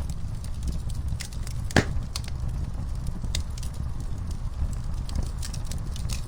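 Wood fire burning in a fireplace: a steady low rumble of the flames with scattered crackles, and one loud pop a little under two seconds in.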